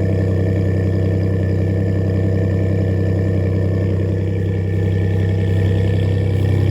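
Exhaust of a 2018 Ford F-150's 2.7 L EcoBoost twin-turbo V6 running through an MBRP dual rear-exit exhaust with straight-through muffler and resonator delete, holding a steady low note with little change in engine speed.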